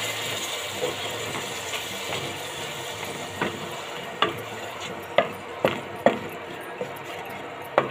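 Onion and spice paste sizzling in oil in a metal pan while a wooden spatula stirs and scrapes it, knocking against the pan several times. This is masala being fried down before the meat goes in.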